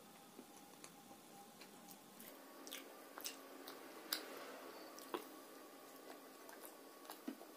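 Faint, wet mouth sounds of a person chewing food, with scattered sharp smacks and clicks of the lips.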